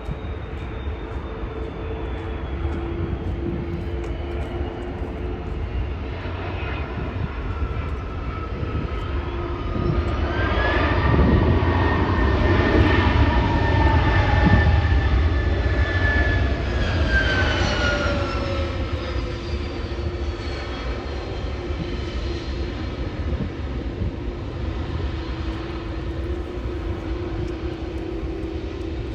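Jet airliner's engines passing close by, a steady rumble with a whine that swells about ten seconds in, is loudest a few seconds later, then falls in pitch and fades as it goes past.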